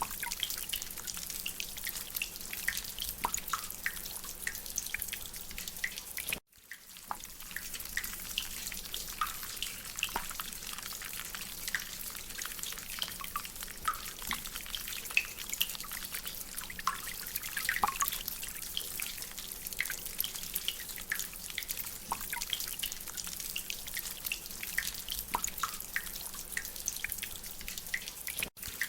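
Rain dripping from a drainpipe: many small, irregular drips over a steady hiss of rain. The sound cuts out briefly about six seconds in and again near the end.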